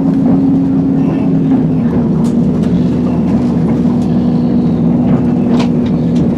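A train's diesel engine running with a steady hum, its pitch dropping slightly about two seconds in.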